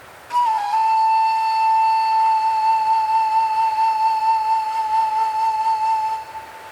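A single long flute note in ambient music. It starts with a short dip in pitch, is held with a slight vibrato, and fades out about six seconds in.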